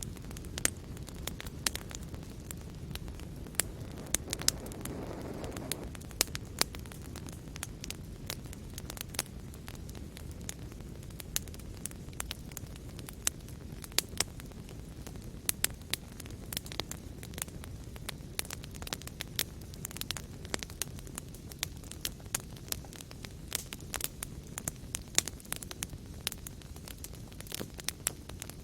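Wood fire crackling: a steady low rumble of flames with frequent sharp pops and snaps, and a brief swell of rushing flame noise about five seconds in.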